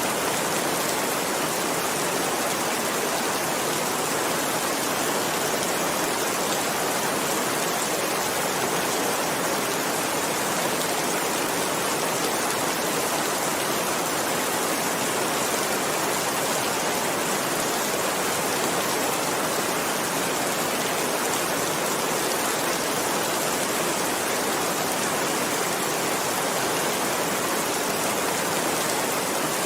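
Heavy rain falling in a steady, even hiss, with no thunderclaps or single drops standing out.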